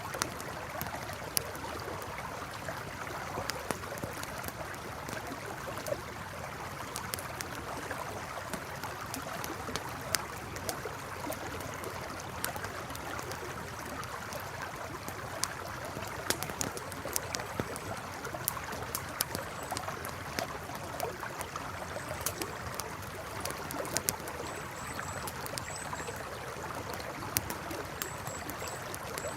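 River flowing steadily, with a campfire crackling and popping in sharp, irregular snaps over it. A few faint high chirps come in near the end.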